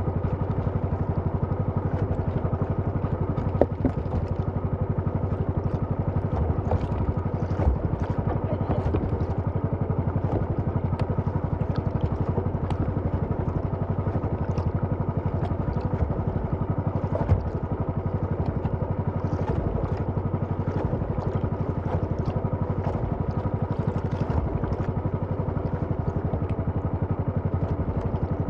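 Small engine running steadily at a constant speed, with a few brief knocks and clatters over it.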